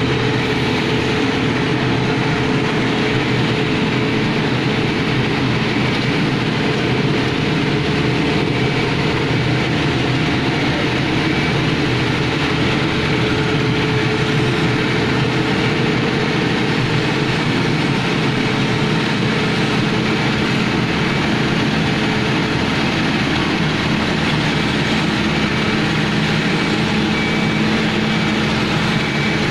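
A heavy engine running steadily at constant speed: a loud, even drone with a steady hum underneath that does not change.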